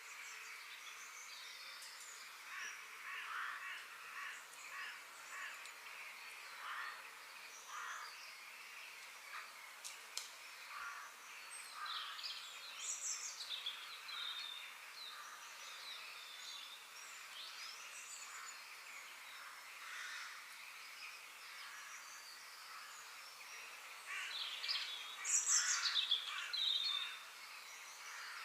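Several birds chirping and calling over a steady outdoor hiss, with a louder flurry of calls near the end.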